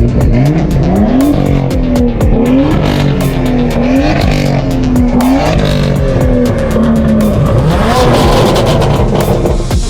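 Race car engine accelerating hard through the gears: its pitch climbs and falls back sharply at each upshift, again and again, about once a second.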